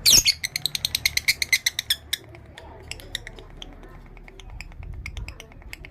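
Male lovebird in breeding condition chattering: one loud shrill call, then a rapid run of sharp chirps for about two seconds, thinning to scattered softer chirps.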